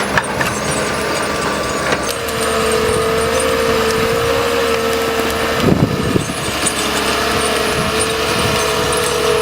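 Heavy machinery working, with a steady whine that sets in about two seconds in and a few knocks of wood or metal a little past the middle.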